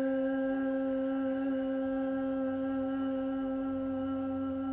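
A woman's voice holding one long, steady hummed tone: the liver's healing sound from the Chinese five-element practice, sustained to make the body vibrate.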